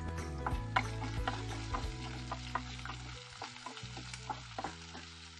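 Ivy gourd pieces frying in oil in a pan and stirred with a spatula: a steady sizzle with irregular scrapes and clicks of the spatula against the pan, getting quieter toward the end.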